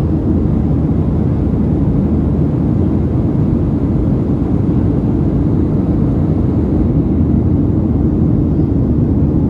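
Steady low drone inside the cabin of a Boeing 737-700 in flight: the CFM56-7B jet engines and the rushing air, with no change in level.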